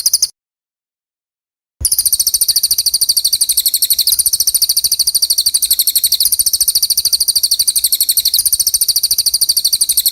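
A songbird's fast, high-pitched string of repeated notes, several a second. It cuts off abruptly just after the start and resumes about two seconds in, then runs on without a break.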